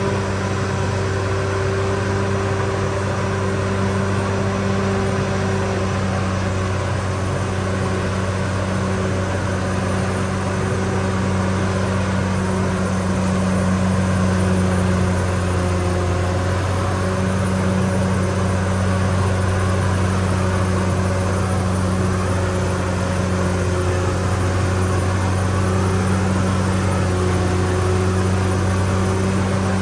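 Caterpillar D6R XL bulldozer's diesel engine running steadily, its pitch holding nearly constant throughout.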